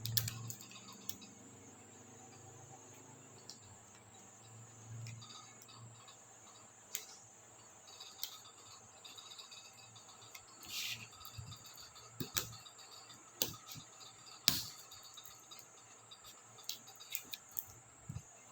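Small sharp plastic clicks and snaps, about a dozen at irregular intervals, of laptop keycaps and their clips being handled and pried off the keyboard. Underneath runs a faint, steady high-pitched hiss.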